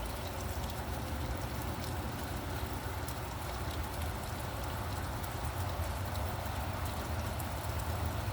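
Steady rain falling, with small drops ticking, over a low, constant rumble of traffic.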